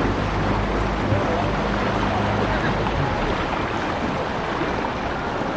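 Canal tour boat under way: a steady low motor hum under a constant rushing noise of the boat moving through the water.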